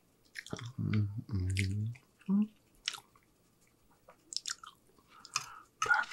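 Close-up chewing of a mouthful of spaghetti and meatballs, with two short low 'mm' hums of enjoyment about a second in. Then wet mouth clicks and smacks.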